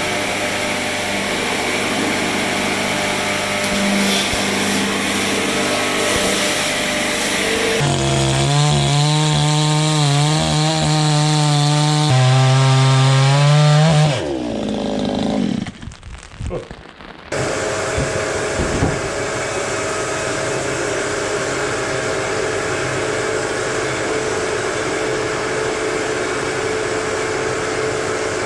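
Sawmill machinery cutting wood. A steady machine hum gives way, about eight seconds in, to a louder pitched motor tone that wavers under load. About halfway through it winds down in pitch and briefly drops away, then a steady machine hum with a held tone resumes.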